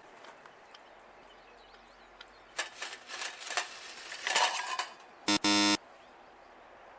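A run of irregular clicks and clinks, like parts being handled, then a short buzzy electronic beep followed at once by a longer one.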